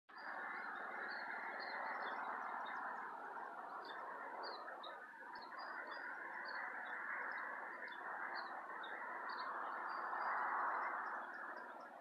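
Small songbirds chirping in short, repeated notes over a steady rushing background noise that swells a little near the end and then eases off.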